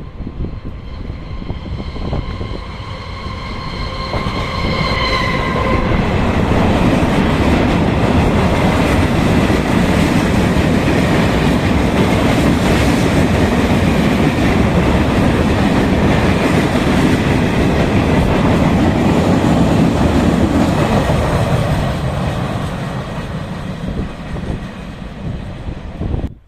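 Train horn sounding for about five seconds, then a train running past close by, loud for some fifteen seconds before fading away near the end.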